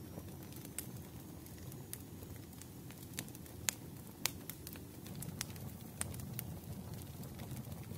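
Wood fire crackling: irregular sharp pops and snaps, a few of them loud, over a low steady rumble of burning flames.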